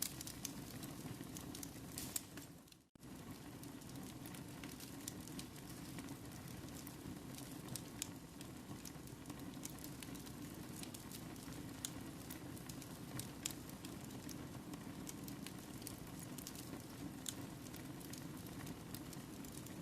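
Wood fire burning in a fireplace, a steady low hiss with scattered sharp crackles and pops. About two and a half seconds in the sound fades and drops out to silence for a moment, then the fire resumes.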